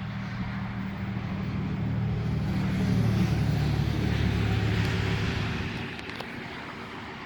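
A motor vehicle drives past, its low engine hum growing louder to a peak in the middle and fading away near the end.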